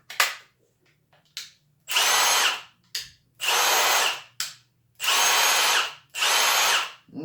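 Milwaukee M18 Gen 3 brushless impact driver run briefly with no load: four short trigger pulls, each a burst of motor whine under a second long. A couple of light clicks come first.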